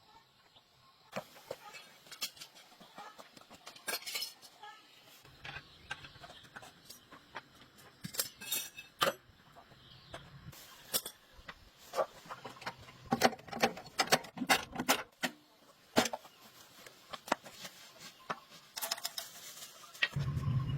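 Irregular light metallic clinks and knocks of small metal objects being handled, some sharper than others. A steady low engine sound starts right at the end.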